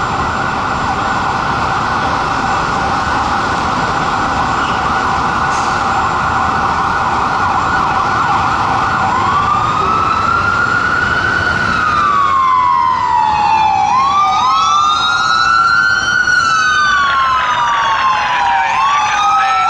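Fire engine sirens sounding on a code 3 response. A fast warbling yelp switches about halfway through to a slow rising-and-falling wail, and a second siren's wail joins out of step with the first.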